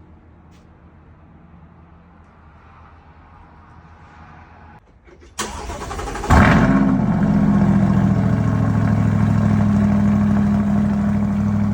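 C8 Corvette V8 breathing through an AWE Track exhaust being started. About five seconds in the starter cranks briefly, and a second later the engine fires with a loud flare of revs that falls away. It then settles into a steady idle.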